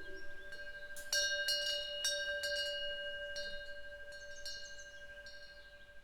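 Korean temple wind bell (pungyeong), a small bronze eave bell, struck several times by its clapper about a second in. It rings on in a few steady, clear tones that slowly fade.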